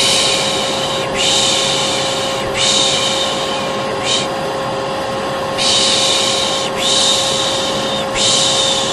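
Hair dryer running with a steady hum, under a person's rhythmic shushing: long 'shhh' sounds about a second each, three in a row and then a short 'sh', the pattern repeating. It is white-noise shushing for soothing a colicky baby.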